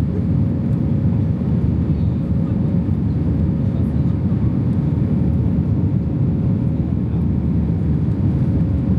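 Steady cabin noise inside a British Airways Airbus A320: an even low rumble of the engines and airflow, with a faint steady hum above it.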